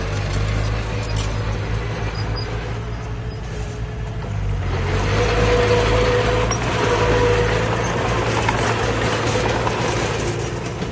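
Diesel engine of heavy earthmoving machinery running steadily with a low hum. From about halfway in, a louder rushing noise with a faint whine rises over it for several seconds, then eases near the end.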